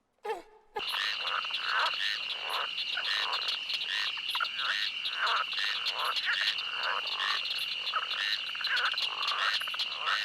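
A chorus of frogs calling, starting abruptly about a second in: rapid repeated croaks over a steady high-pitched trill.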